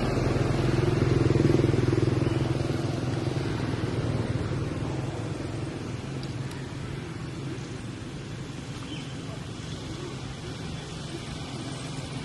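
A motor vehicle's engine running with a steady low hum, loudest about a second and a half in and then slowly growing fainter as it moves away.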